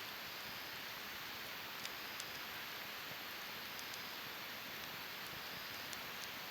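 Wood campfire burning: a steady soft hiss with a few small pops, a couple about two seconds in and another near the end.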